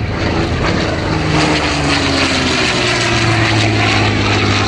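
Supermarine Spitfire Mk XI's Rolls-Royce Merlin 70 V12 engine running loudly as the aircraft flies past, its tone sliding slowly down in pitch.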